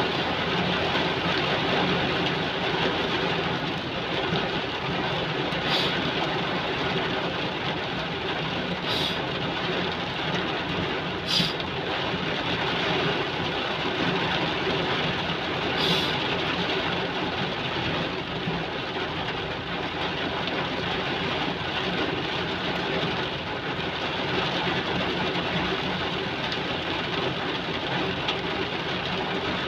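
Heavy rain falling in a steady, even hiss, with a few brief sharp ticks or knocks standing out about six, nine, eleven and sixteen seconds in.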